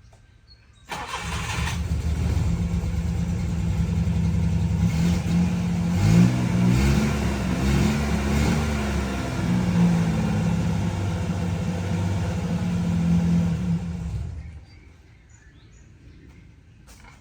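Small Daewoo truck's engine starting and running, revved a few times in the middle, then shut off.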